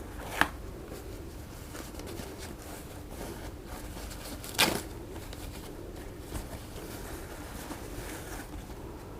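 Handling sounds from the FPV goggles and their packaging: two sharp knocks, about half a second and about four and a half seconds in, and a lighter tap later, over a faint steady low hum.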